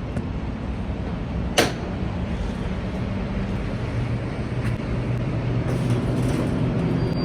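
Semi-truck's diesel engine running with a steady low hum that grows a little louder in the second half, with one sharp click about a second and a half in.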